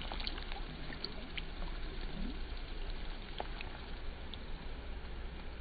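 Wind buffeting the microphone: a steady low rumble and rushing noise, with a few faint ticks scattered through it.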